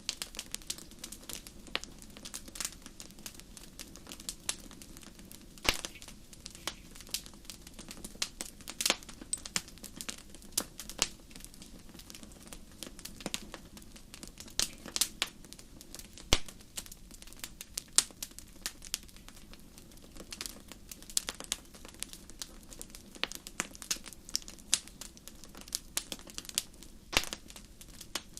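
Wood fire crackling in a fireplace: irregular sharp pops and snaps, a few louder than the rest, over a soft steady low rumble of the flames.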